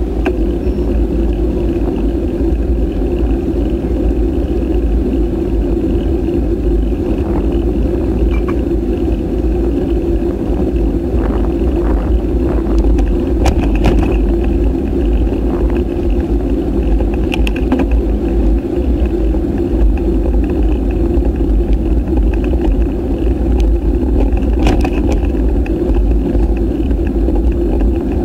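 Steady wind and road rumble on the V.360 action camera's microphone while riding, with a few sharp clicks or rattles about halfway through and again near the end.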